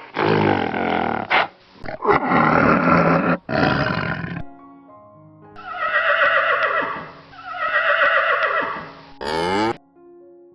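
A large animal roaring and growling in rough bursts, followed by a horse whinnying: two long neighs falling in pitch, then a short shaky one, over soft background music.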